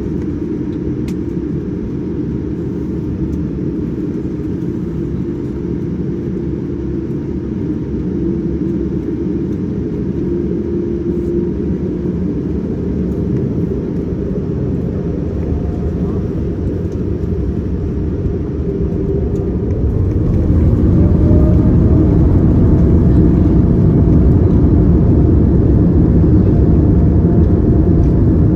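Cabin noise of a Boeing 787-9 airliner: a steady low rumble on the ground. About twenty seconds in, a rising whine comes in and the rumble grows louder as the engines spool up to higher thrust, as at the start of the takeoff roll.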